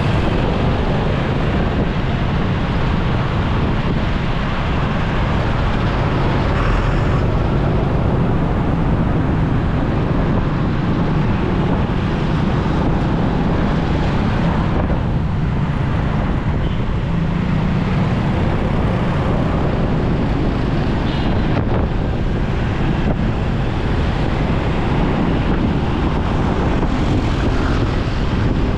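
Steady wind rush on the microphone and motorcycle engine drone while riding in traffic, with no clear breaks.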